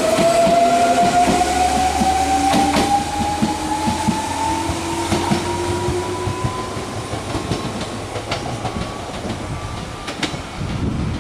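Electric freight train running past: wheels clicking over rail joints under a motor whine that rises steadily in pitch as the train picks up speed. The sound slowly fades toward the end.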